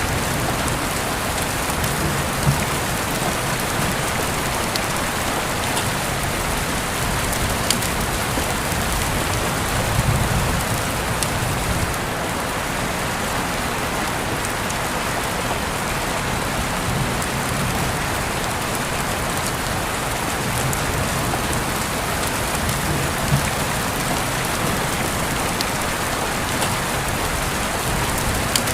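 Steady rain falling on surfaces, with a few sharper drop hits standing out now and then.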